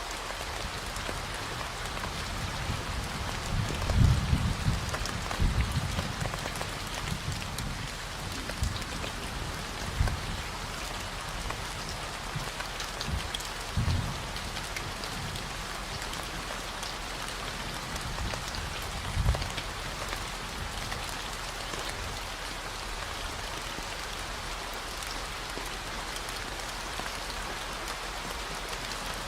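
Steady rain hiss mixed with a constant low 40 Hz hum. Several brief low rumbles come through, around 4, 10, 14 and 19 seconds in.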